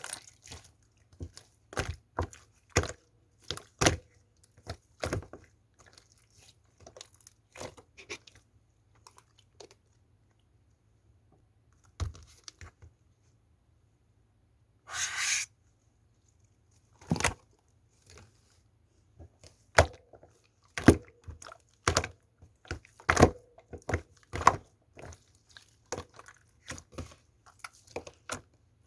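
Slime being squeezed and poked by hand, giving irregular sharp clicks and pops. A single longer squelch comes about halfway through, after a few quiet seconds.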